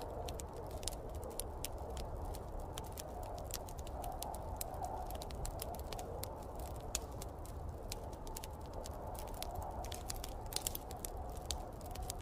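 Fireplace fire crackling, with many irregular sharp pops and snaps over a steady low rushing noise.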